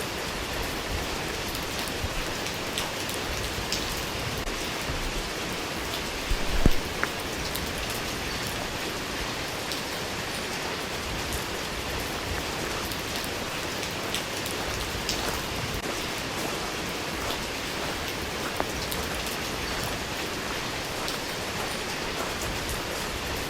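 Steady rain falling, an even hiss with scattered individual drop hits. About six and a half seconds in there is one louder knock.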